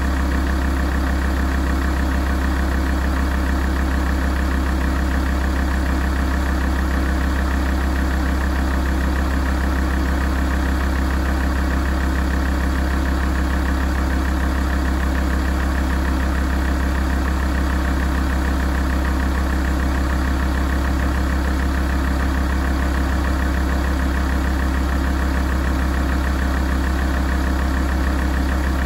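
Alfa Romeo 166 facelift's 2.4 JTDm five-cylinder common-rail diesel (129 kW) idling steadily while warming up, with no revving.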